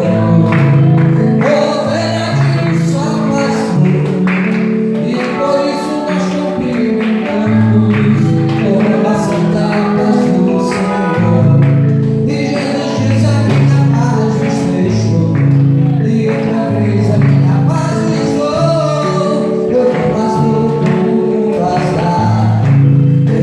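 Congregational gospel music: voices singing over a steady instrumental accompaniment with a walking bass line, continuing without a break.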